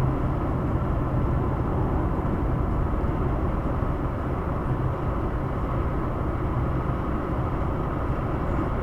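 Steady road and engine noise heard from inside a moving car's cabin: an even rumble with a low hum.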